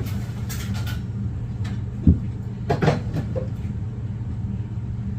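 A vehicle engine idling steadily, with a single knock about two seconds in and a short clatter just under a second later.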